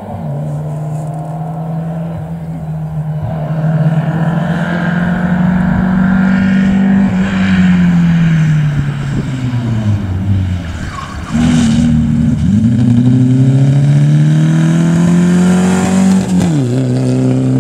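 A Moskvitch rally car's four-cylinder engine revving hard under acceleration. The pitch rises for several seconds, eases off about seven seconds in, then climbs again and drops sharply with a gear change near the end as the car passes close by.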